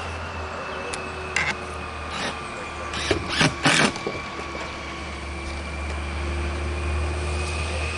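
A motor running steadily with a low hum, and a handful of short knocks and clatters about one to four seconds in, the loudest near the middle.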